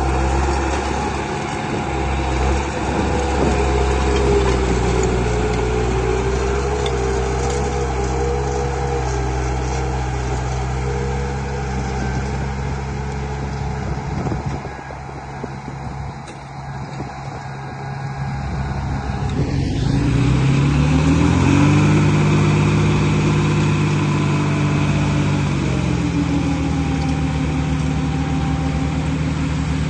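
Engine of an earthmoving machine running steadily with a low, even note. About twenty seconds in, the pitch rises in a step as it revs up, then holds at the higher speed.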